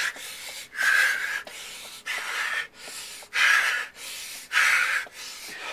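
A person breathing hard from heavy exertion, pushing a van uphill: loud, rhythmic breaths about one every second and a quarter.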